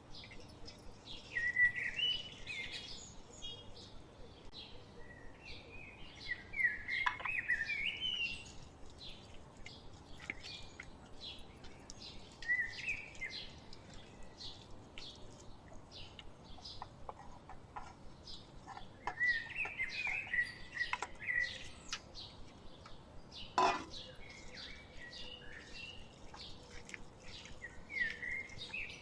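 A bird singing in short warbling chirp phrases every few seconds, over many faint quick ticks. A single sharp knock comes about two-thirds of the way through.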